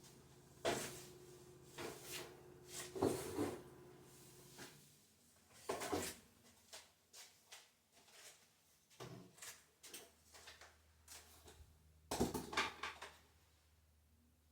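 Irregular knocks and clatter of hard objects being handled or set down, over a faint steady hum that shifts about five seconds in.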